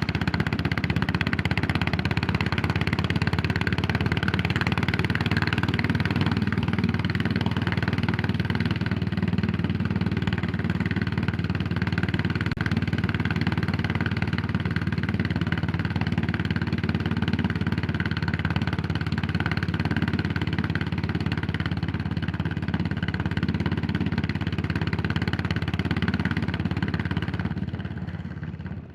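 Yamaha SR400's air-cooled single-cylinder four-stroke engine running steadily as the motorcycle rides along. The sound falls away sharply about a second before the end.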